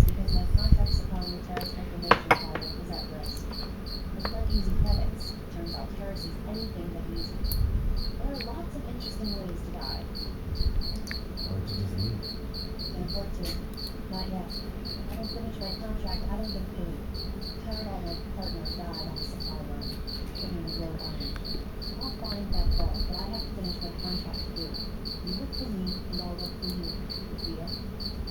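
A cricket chirping steadily, about two to three high chirps a second, with a few dull thumps and a sharp click over it.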